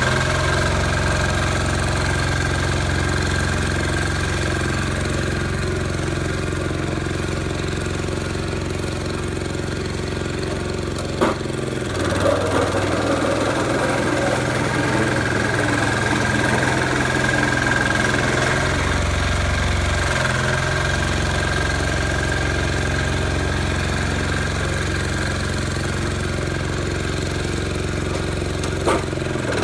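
Sears 8XL garden tractor's diesel engine running steadily, with a thin steady whine above it and changes in its low note about twelve and twenty seconds in. Two sharp clacks cut through, one about eleven seconds in and one near the end.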